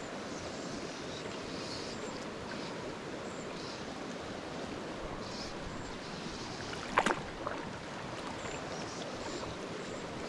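Small mountain creek rushing steadily over its bed. About seven seconds in there is one short, sharp sound, followed by a smaller one.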